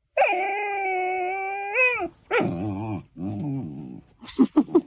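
A dog vocalizing: one long held call of about two seconds that bends up at the end, then two shorter, lower, wavering calls, and a quick run of short yips near the end.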